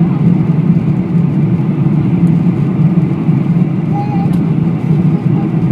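Steady low roar of a jet airliner's engines and rushing air, heard from inside the cabin during the climb after take-off.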